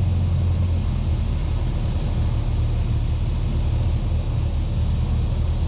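Cessna 172's piston engine and propeller droning steadily in cruise flight, as heard inside the cabin: a constant low hum with no change in pitch.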